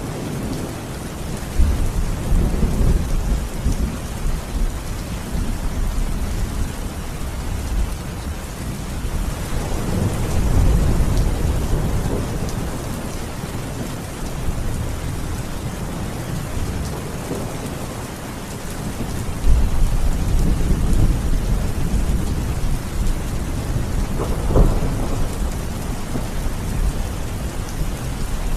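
Steady rain falling on surfaces, with rolling thunder rumbling several times. The heaviest peals come in suddenly about two seconds in and again about two-thirds of the way through.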